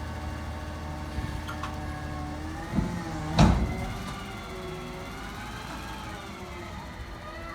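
McNeilus ZR rear-loader garbage truck running, with a whine that rises and falls in pitch, and two loud bangs, the second and louder about three and a half seconds in.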